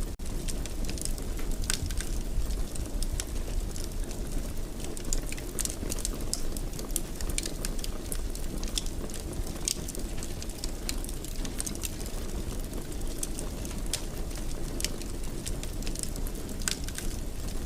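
Wood fire in a fireplace crackling, with frequent irregular sharp pops and snaps over a steady low rush of flame. The sound drops out for an instant right at the start.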